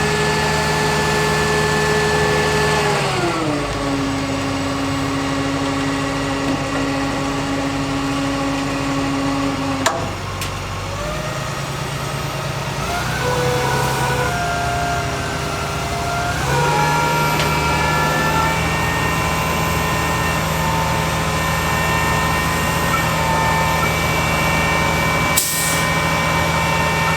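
International DT466 diesel engine running, its speed dropping about three seconds in, wavering, then stepping back up and holding steady. A click comes partway through, and a short burst of hiss near the end.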